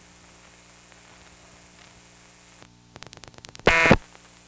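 Analog telephone line noise heard off a phone earpiece. Near the end a rotary-dialled digit goes through: the background drops, a string of soft dial-pulse clicks runs for about a second, then the central office switching equipment answers the end of the digit with a short, loud, buzzy tone burst, and the line noise returns.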